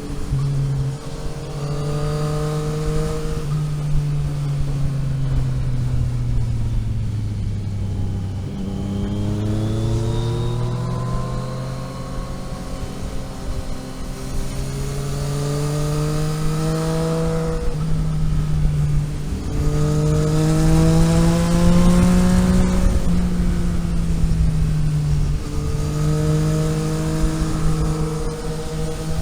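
Vehicle engine under way, its pitch falling and rising as it slows and pulls away again, with a few sudden pitch jumps at gear changes.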